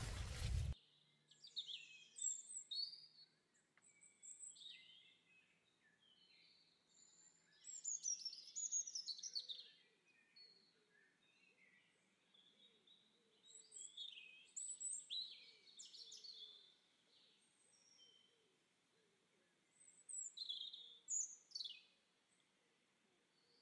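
Small birds chirping and singing: bursts of quick high chirps and short downward-sweeping notes that come and go throughout. A brief loud rushing noise at the very start cuts off abruptly.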